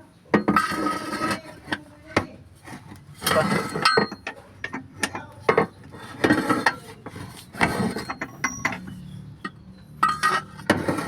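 Hand tools and metal engine parts clinking and knocking irregularly, with short metallic rings and ratchet-like clicks.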